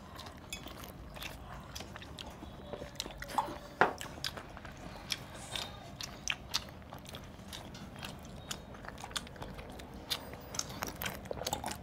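A person chewing and biting tough desi chicken meat, with irregular wet clicks and smacks of the mouth, the loudest a little under four seconds in. The meat needs a lot of chewing.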